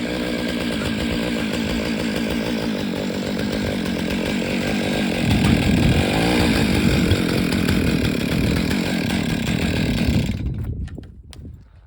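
Chainsaw running at full throttle in an Alaskan-style chainsaw mill, ripping through an elm log. It gets louder about five seconds in and fades away shortly before the end.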